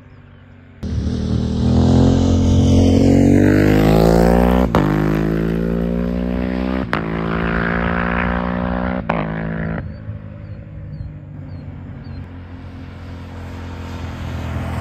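Aprilia Tuareg 660's parallel-twin engine through a Dominator HP6 full exhaust, starting suddenly about a second in and accelerating hard. Its pitch climbs, breaks off briefly at each of three upshifts, then climbs again. About ten seconds in the throttle closes and it runs quieter, rising again near the end.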